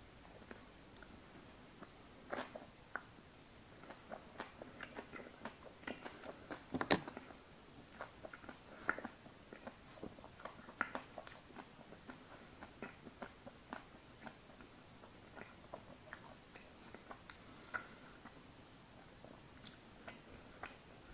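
Close-miked eating sounds of a man biting into and chewing an ice cream bar: irregular mouth clicks and smacks, the loudest about seven seconds in.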